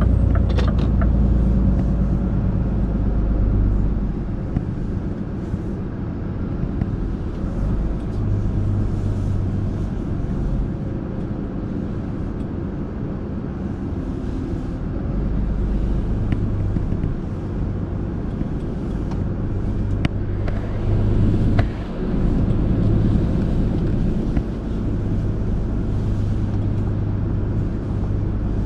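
Heavy truck's diesel engine running with a steady low rumble; its deepest note drops away about four seconds in and comes back about fifteen seconds in.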